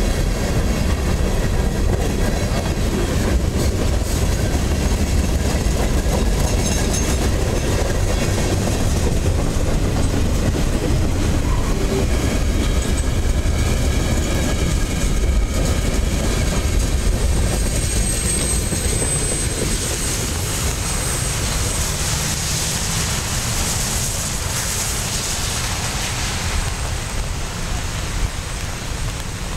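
Freight train of tank cars rolling past: a steady rumble of steel wheels on rail with clickety-clack over the rail joints. In the last third the rumble eases and a higher hiss comes up.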